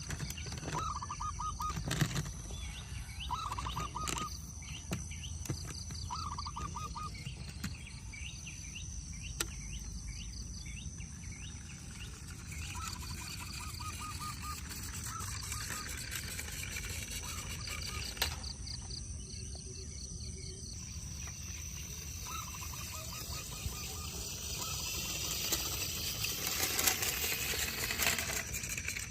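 Birds calling outdoors: short pulsed calls repeating every second or two, with higher chirps, over a steady background hiss.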